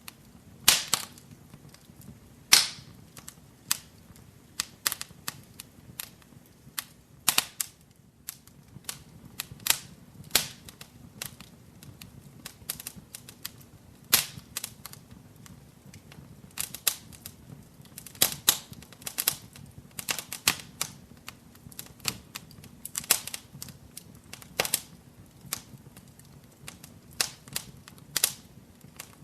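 Wood fire crackling in a fireplace: irregular sharp pops and snaps, a few louder ones standing out, over a faint low hiss of burning.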